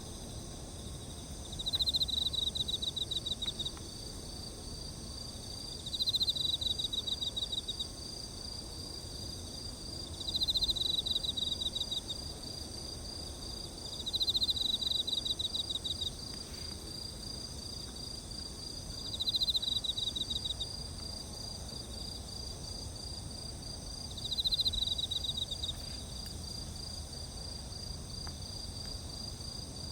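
Insects calling: one repeats a pulsed trill of about a second and a half every four to five seconds, over a steady high-pitched chirring chorus from other insects.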